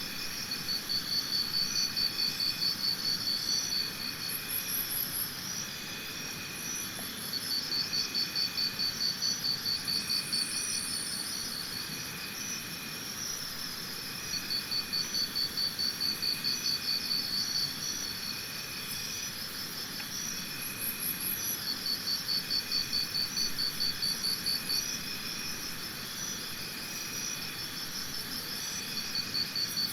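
Insects chirping. One loud, high pulsed trill comes in bouts of about three seconds every six or seven seconds, over a steady chorus of other insects trilling at different pitches.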